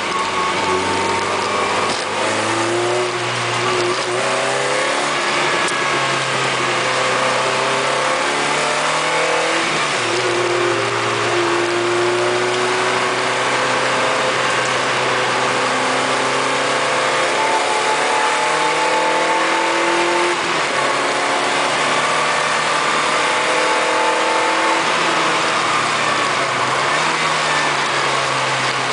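Lotus Elise Sport 160's mid-mounted Rover K-series four-cylinder engine heard from inside the cabin, revving up and easing off through the gears, its pitch dropping at each of several gear changes. It is being short-shifted because the gauges have an electrical fault.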